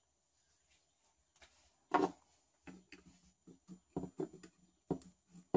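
A sharp tap about two seconds in, then a string of small, light knocks and clicks as screws and tool parts are handled and set down on a work surface.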